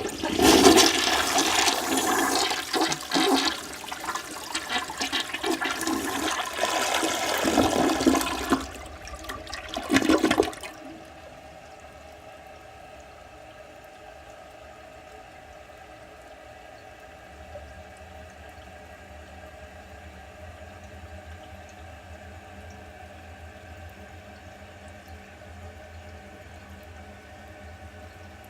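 Toilet flushing: a loud rush of water for about eight seconds, then a brief final surge about ten seconds in as the bowl empties. After that the tank refills with a much quieter, steady hiss of running water.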